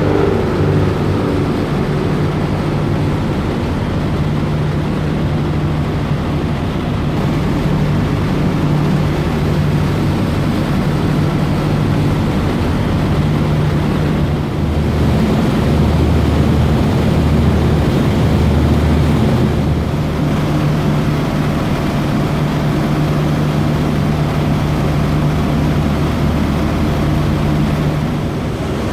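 Passenger ferry's engines running underway with a steady low drone, over an even rushing noise of wind and water.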